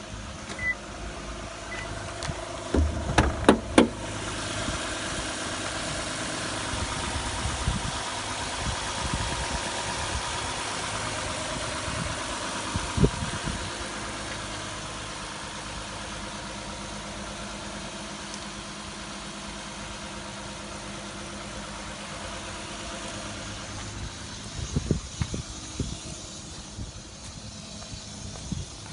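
Toyota Crown GRS184's 3.0-litre V6 started with a short crank about three seconds in, then idling. It runs at a raised, louder idle at first and settles to a lower, quieter idle about halfway through, as after a start. A few knocks sound near the end.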